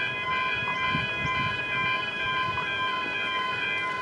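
Level crossing warning bell ringing continuously, a steady multi-tone ring with no break, sounding while the crossing is active.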